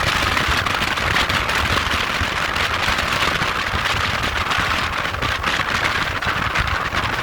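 Motorcycle riding: a steady rush of wind buffeting the microphone over a low, fluttering rumble.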